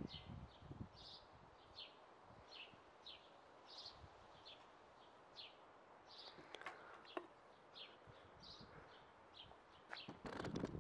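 Small bird chirping faintly and repeatedly, short high chirps, many falling in pitch, about two a second. A louder low rushing sound comes in near the end.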